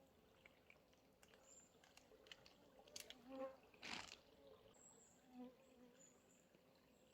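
Faint sounds at a forest camp: an insect buzzing briefly near the microphone a couple of times, with small scattered clicks and one short rustle about four seconds in.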